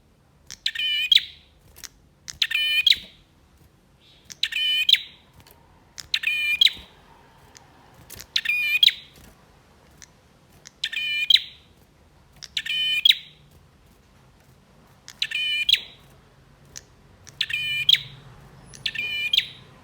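Male prinia (prenjak) singing: about ten short, rapid, buzzy trilled phrases, each under a second long, repeated roughly every two seconds.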